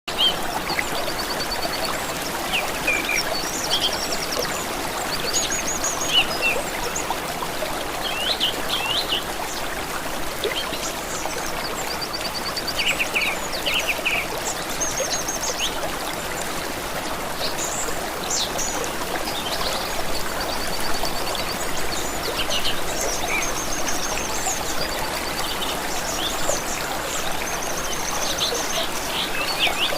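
Stream running steadily, with several small birds chirping and trilling over it throughout.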